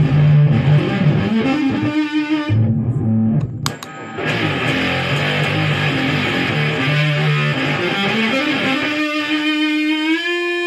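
Electric guitar on the neck humbucker, played through an Electro-Harmonix Little Big Muff fuzz into a Hot Tubes overdrive, giving a heavily distorted, fuzzy tone as it plays notes and riffs. A short break with a click comes about three seconds in, and near the end a long held note wavers with vibrato.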